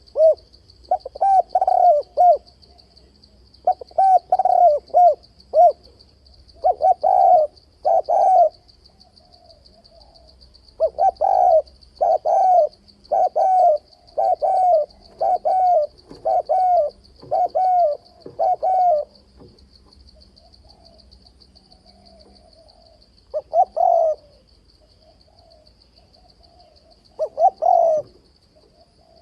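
Spotted dove cooing over and over in phrases of several coos. There are short groups at first, a long unbroken run of about eight coos in the middle, and then two short calls spaced apart near the end.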